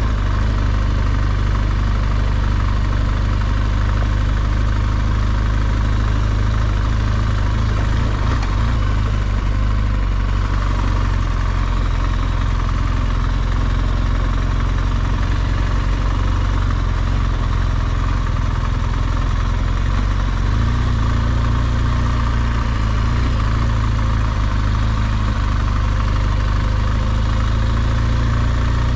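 BMW R1200GS Adventure's boxer-twin engine running steadily as the motorcycle is ridden, with a slight shift in engine pitch about twenty seconds in.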